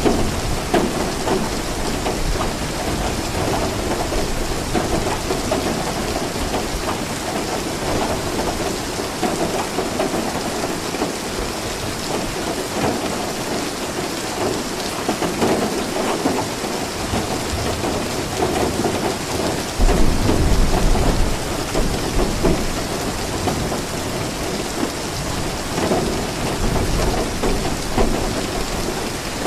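Steady rain falling, with a low rumble of thunder swelling about twenty seconds in.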